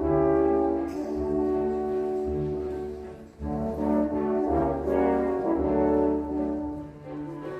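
Orchestral classical music with long held brass chords that change every second or so, briefly dropping in level about three seconds in before swelling again.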